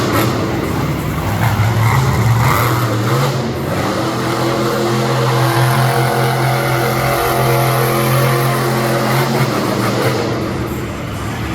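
Monster truck engine running loud, holding a steady note for most of the time and easing off near the end.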